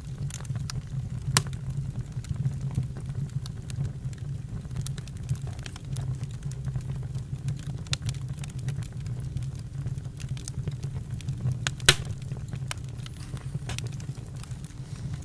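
Campfire crackling: irregular sharp pops and snaps over a steady low rumble, with two louder pops, one about a second and a half in and one near the end.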